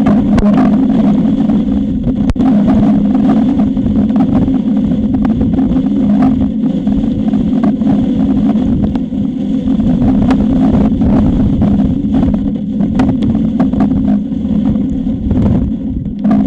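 Strong gusting wind buffeting an outdoor eagle-nest camera's microphone: a loud, rumbling roar broken by many crackles and knocks. A steady low hum runs underneath.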